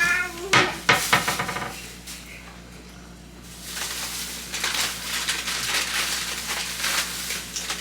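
Household items clattering and knocking as they are handled, like dishes and food containers being moved about: a few knocks near the start, then a busy stretch of clatter from about halfway through.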